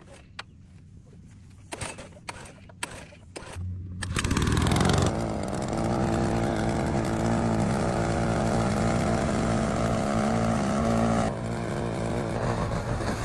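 Restored Makita self-propelled lawn mower's petrol engine starting up about four seconds in and running steadily, a little quieter from about eleven seconds in. A few clicks and knocks come before it starts.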